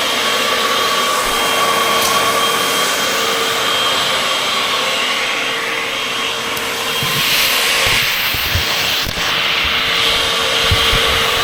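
Vacuum cleaner running steadily, its motor giving a constant whine over the rush of suction. A few low knocks come in the second half of the stretch.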